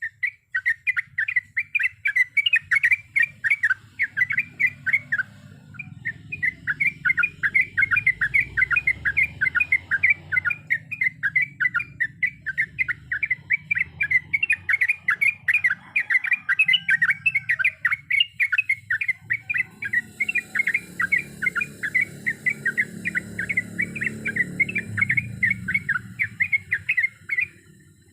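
Yellow-vented bulbul singing a long, rapid run of sharp chirping notes, about five or six a second, pausing briefly twice. A faint low hum runs underneath.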